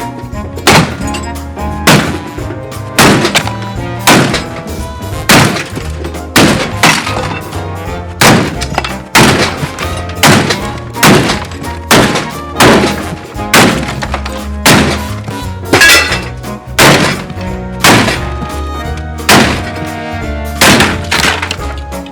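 Samsung washing machine banging heavily about once a second as it shakes itself apart under background music.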